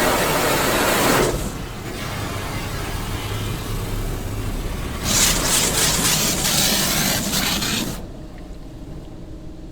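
Automatic car wash equipment spraying water over the car: a loud hissing spray that eases about a second in, surges again about five seconds in, then drops away near the end to a quieter steady machine hum.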